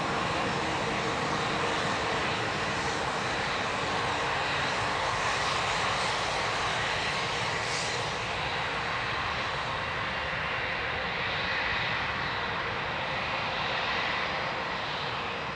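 Jet aircraft engines running with a steady whining roar that eases off slightly near the end.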